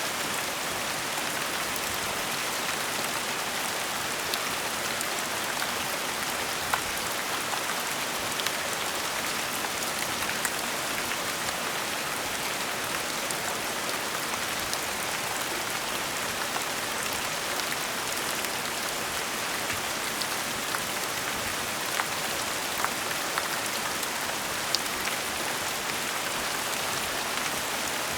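Steady gentle rain falling, an even hiss with occasional louder single drops ticking on a surface.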